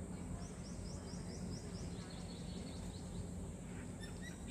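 Outdoor ambience with a small bird giving a quick run of short, high, falling chirps, about six a second, from shortly after the start until about two seconds in. A few more high notes follow over a steady faint hiss and hum.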